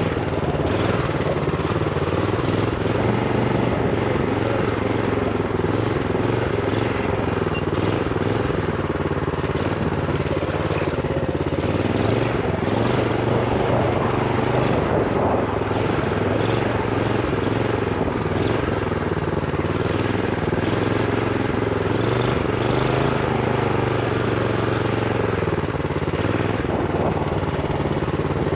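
Honda GX390 single-cylinder four-stroke engine on a minibike, running at limited low revs under a throttle stop screw while riding, its pitch rising and falling a little as the throttle is worked.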